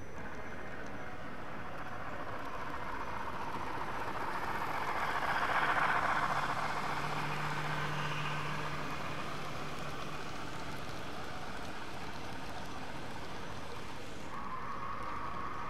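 A train passing close by: its running noise swells to a peak about six seconds in, with a steady low hum as the locomotive goes by, then settles into the steady run of the cars. A steady higher tone cuts in near the end.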